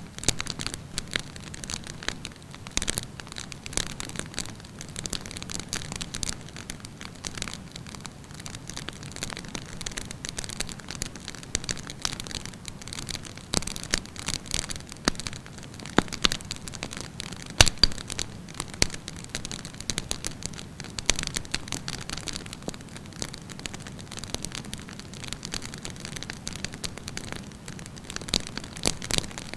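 Wood campfire burning, with a steady hiss and frequent irregular crackles and pops, a few sharper snaps standing out about halfway through.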